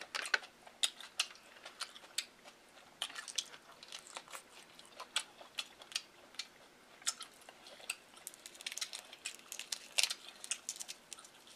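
Close-miked mouth sounds of a person eating: chewing and lip-smacking, heard as irregular sharp wet clicks, at times several a second.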